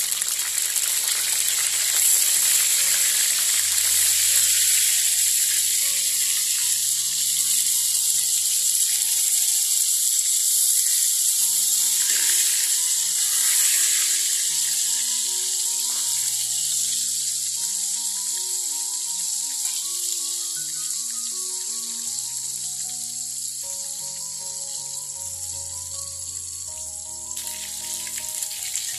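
Tempe slices deep-frying in hot oil in a wok: a loud, steady sizzle that eases gradually through the second half as the oil settles around the pieces.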